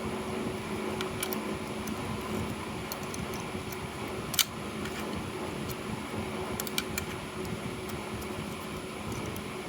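A steady hum with a faint high whine, and scattered light clicks, one sharper than the rest about four and a half seconds in.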